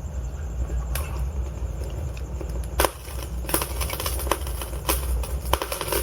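Log fire burning in a fireplace: a steady low rumble of flames with sharp crackles and pops from the wood, sparse at first and coming thick and fast from about three seconds in.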